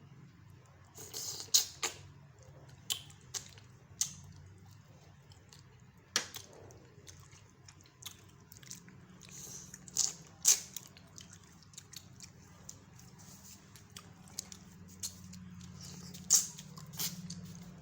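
Mukbang eating sounds: chewing and biting sate padang, with scattered short clicks and wet smacks at irregular intervals, the loudest a pair about ten seconds in. A low steady hum runs underneath.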